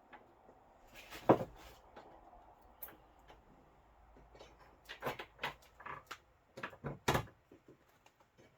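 Knocks, taps and clicks of hard parts being handled: one loud knock about a second in, then a quicker run of knocks and clicks from about five to seven seconds in, as the rear window panel and its mounting hardware are worked into place.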